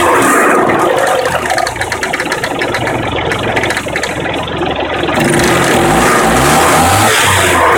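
Car engine running with a fast, even knocking beat, dropping toward idle and then revved up again about five seconds in. The knock is an unexplained strange noise the owner is asking about.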